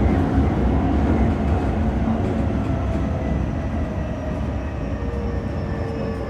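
Nankai 8000 series electric train running on the rails, its traction motor and inverter whine slowly falling in pitch as the train slows, over a steady rumble of wheels on track.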